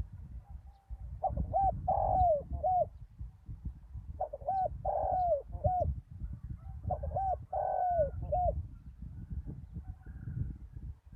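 Spotted dove cooing: three repeated phrases, each of short coos around one longer, falling coo, spaced a couple of seconds apart. A steady low rumble runs underneath.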